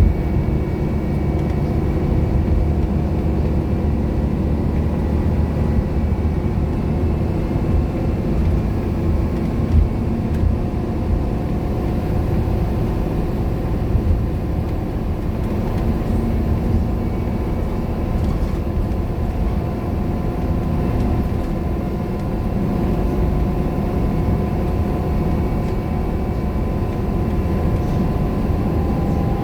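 Scania K230UB single-decker bus with a five-cylinder diesel engine, running steadily under way. The engine drones continuously with a thin steady whine over it, and there are a couple of brief knocks about ten and fourteen seconds in.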